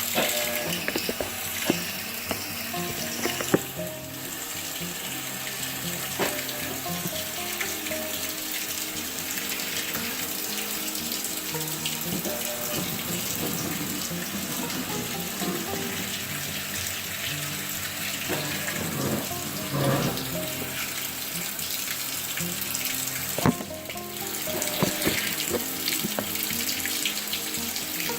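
Water running steadily into a Maytag top-load washing machine as it fills, with a few light clicks.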